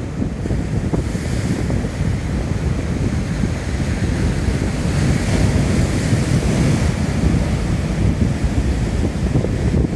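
Strong wind buffeting the microphone with a heavy, gusty rumble, over rough surf breaking on the shore; the hiss of the waves swells about a second in and again midway.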